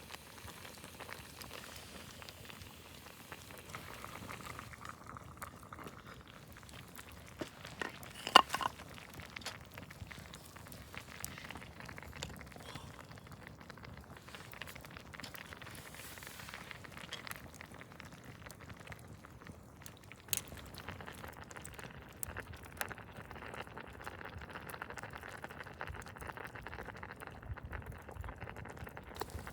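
Sukiyaki simmering and bubbling in a pot, with scattered small crackles and one sharp click about eight seconds in.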